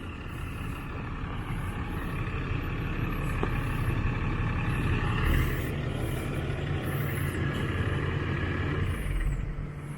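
A vehicle engine running steadily at low revs, swelling slightly a couple of times.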